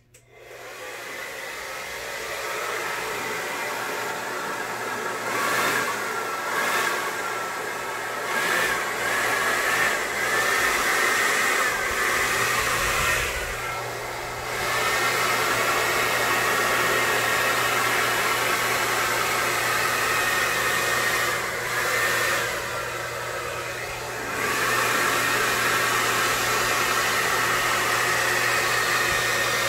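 Handheld hair dryer switched on and blowing steadily, used to push wet acrylic paint across a canvas in a Dutch pour. Its sound swells and dips as it is moved, with short dips about halfway through and again about three-quarters in.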